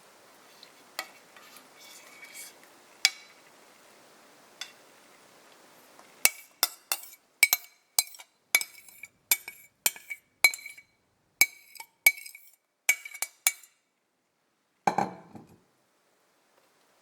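A spoon stirring in a cup, clinking against its side about twice a second for several seconds after a few scattered clinks, each clink ringing at the same pitch. One duller knock follows near the end.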